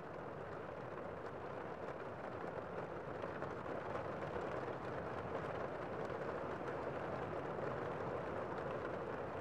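Gentle rain falling steadily on a window, an even hiss of many drops with faint ticks of single drops.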